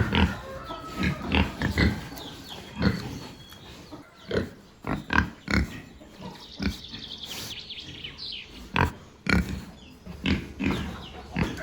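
Pigs grunting: a string of short grunts at irregular intervals.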